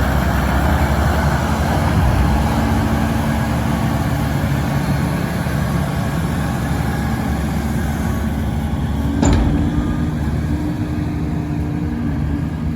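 Heavy diesel harvest machinery running steadily, with one brief knock about nine seconds in.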